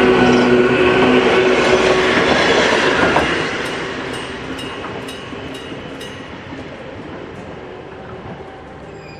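Hokuriku Railroad Ishikawa Line electric train passing close by, loudest for the first three seconds, then fading as it moves away. Wheels click over rail joints at irregular intervals.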